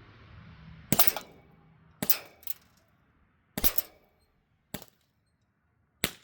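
Z77 CO2-powered BB gun firing five sharp shots, spaced a second or so apart, the second followed by a fainter click.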